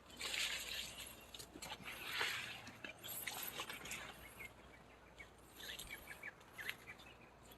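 Soft rustling of footsteps through grass and brushing leaves, swelling about two seconds in. A few faint short bird chirps come in the second half.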